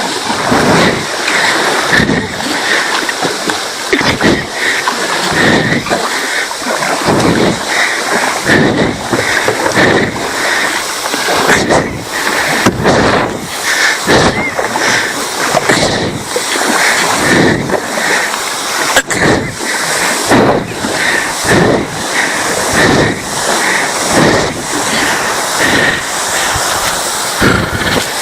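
Swift river water rushing and splashing, with repeated splashes roughly once a second.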